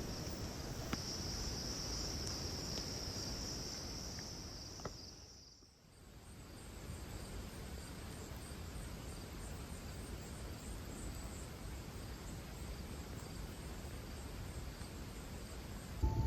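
Outdoor insect chorus, a steady high-pitched trilling. It fades out about six seconds in, and a fainter, higher pulsing insect song carries on.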